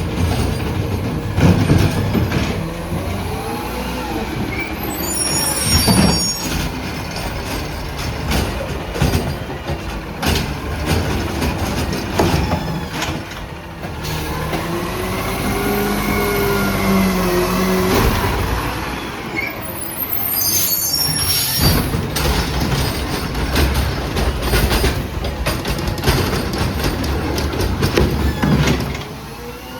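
Autocar ACX automated side-loader garbage truck with a McNeilus ZR body working its route. The engine revs up and back down in the middle, amid repeated clanks and bangs of carts being gripped and dumped by the arm. There are two short high hissing squeals, typical of the air brakes.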